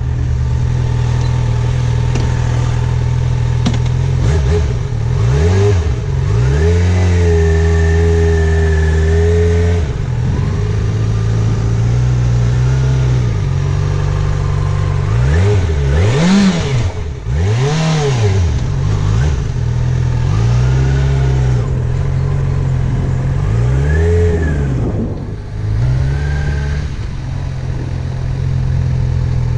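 Yamaha FZ6R's 600 cc inline-four engine running at low speed, revving up and dropping back again and again, about eight or nine times, between stretches of steady running, as the rider works through slow right-left turns.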